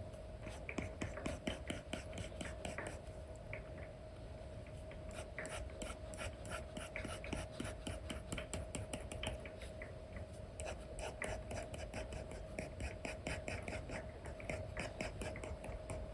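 Apple Pencil tip tapping and scratching across an iPad's paper-feel screen protector in quick short dabs and strokes, several a second, over a faint steady hum.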